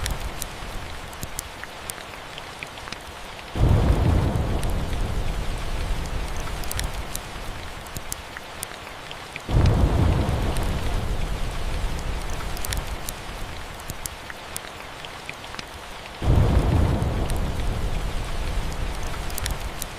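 Steady rain with thunder rumbling three times, each rumble starting suddenly and dying away over several seconds, and scattered sharp crackles from a wood fire.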